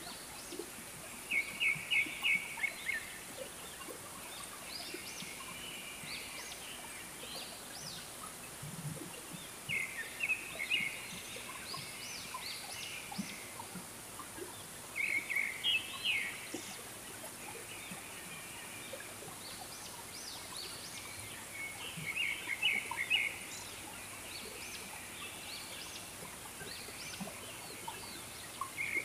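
A bird calling a rapid chattering series of quick notes, about one to two seconds long, repeated four times roughly every six seconds.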